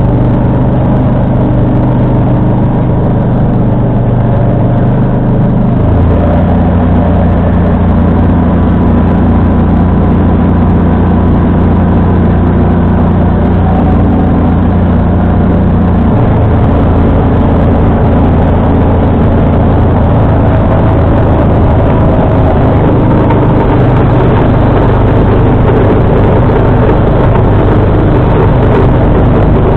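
John Deere 445 lawn tractor's V-twin engine running under load while driving the front-mounted snowblower. The engine note shifts about six seconds in and again around sixteen seconds.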